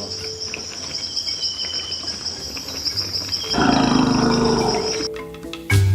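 Crickets chirring steadily in a dense, high-pitched chorus. About three and a half seconds in, a louder, low, rough sound lasts a second or two. Marimba music begins near the end.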